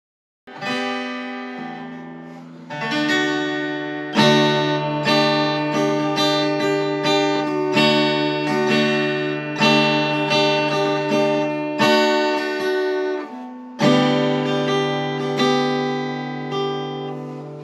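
Acoustic guitar music, strummed chords about once a second with picked notes ringing over them, starting about half a second in.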